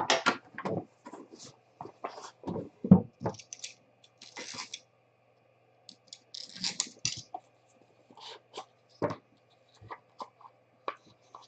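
A sealed trading card box and its pack being opened and the cards handled, heard as intermittent rustling, crinkling and tearing of wrapper, with scattered clicks and taps.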